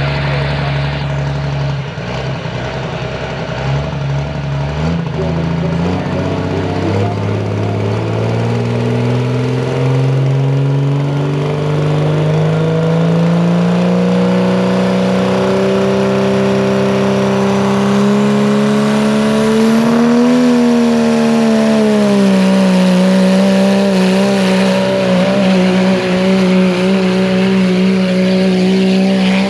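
Competition pulling tractor's engine running hard under load on a pull, its pitch climbing slowly for about twenty seconds, dipping slightly, then holding steady.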